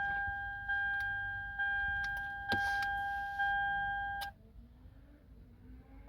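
Toyota Sienna's dashboard warning chime repeating about once a second, each ding fading before the next, with a few light clicks; it cuts off about four seconds in.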